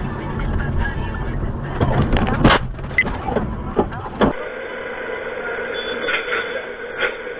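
Road vehicle noise with a low rumble and a few knocks, and one loud sharp bang about two and a half seconds in. Then a different, duller recording with a steady vehicle hum and a couple of knocks.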